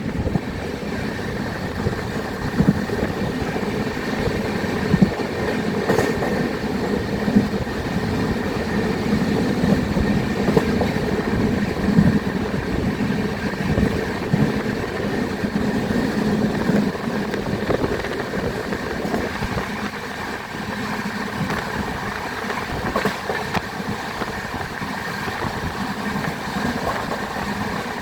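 Passenger train running on the rails: a steady rumble of wheels on track with occasional sharp clicks, easing slightly in the second half.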